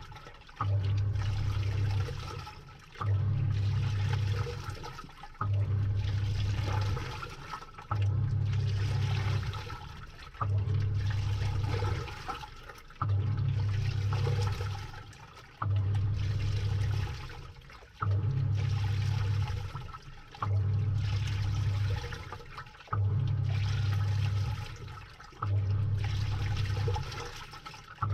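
Samsung 6.5 kg top-load washing machine agitating a load, heard from inside the drum: the motor hums in bursts of about a second and a half, about every two and a half seconds, as the pulsator turns one way and then the other. Water and wet clothes slosh throughout.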